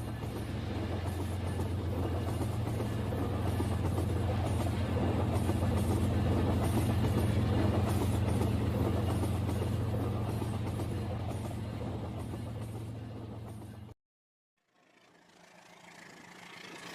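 Toy train's small electric motor running with a steady hum while its wheels click regularly over the track joints. The sound grows louder and then fades as the train passes, before cutting off abruptly about 14 seconds in.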